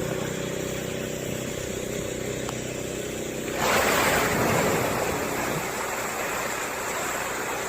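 A steady engine hum, then about three and a half seconds in a sudden loud rush of splashing water as a large animal breaks the surface, fading over a couple of seconds.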